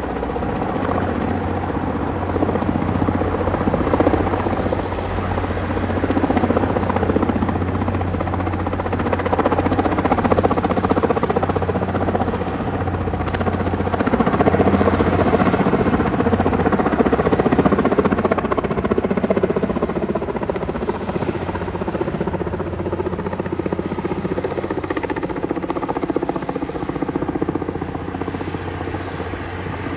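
Sikorsky H-34 helicopter running, its Wright R-1820 nine-cylinder radial engine droning under the rapid chop of the rotor. The sound is continuous and slowly swells and eases in loudness.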